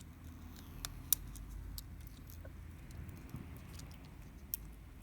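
Scattered light clicks and taps of small phone parts being handled as camera flex connectors are pressed onto a smartphone's board, over a low steady hum.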